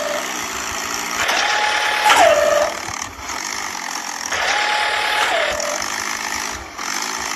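A machine running over a steady hiss, with a whine that holds its pitch and then drops, repeating about every three seconds.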